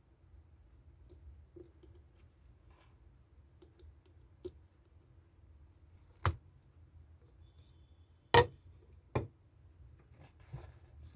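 Slime being handled and squished: faint soft handling sounds with a few sharp clicking pops, the loudest about six, eight and nine seconds in.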